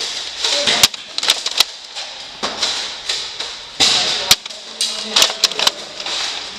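Foam-dart blasters firing and darts striking: a scatter of sharp clacks and thuds at irregular intervals, some followed by a short hiss.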